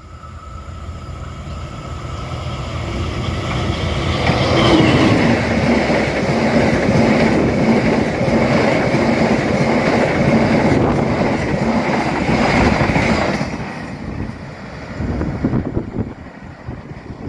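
A train passing close by at speed: the rumble of wheels on the rails builds up, stays loud for about ten seconds with a steady high ringing note over it, then drops off sharply about 13 seconds in as the end of the train goes past.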